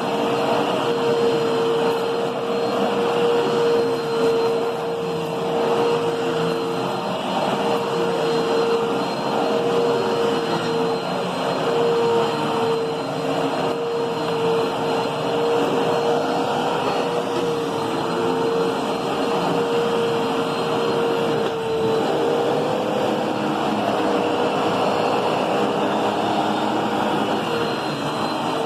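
Hoover upright vacuum cleaner running steadily, its motor giving a strong, steady whine over a rushing air noise; the pitch wavers briefly about two thirds of the way through.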